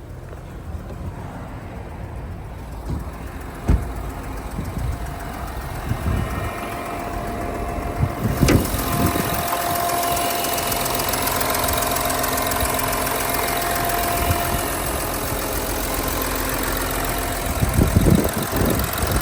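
Volkswagen Touareg TDI diesel engine idling steadily. There is a single knock about four seconds in, and about eight seconds in the engine sound becomes louder and brighter.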